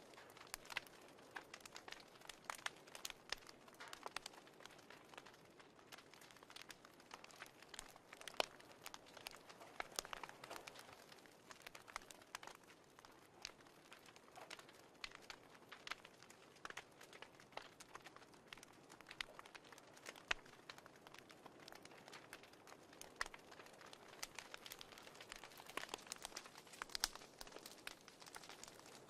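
Fireplace crackling, faint: a soft hiss with irregular sharp pops and snaps.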